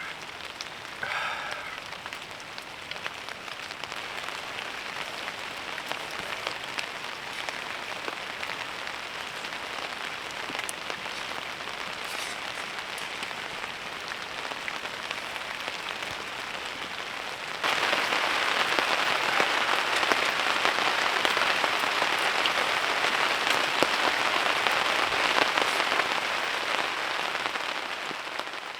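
Heavy rain falling steadily, a dense patter of drops on a surface. About two-thirds of the way through it abruptly becomes louder and fuller, then it fades out at the very end.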